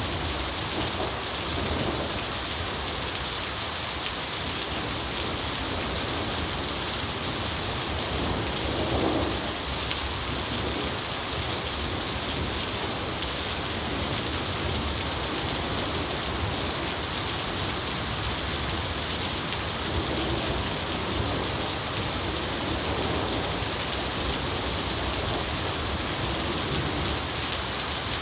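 Steady rain falling, with a low rumble of thunder about nine seconds in.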